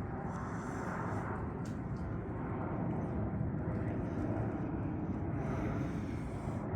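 Boeing 737 MAX 8 jet engines (CFM LEAP-1B) running with a steady, even noise strongest in the low and middle range.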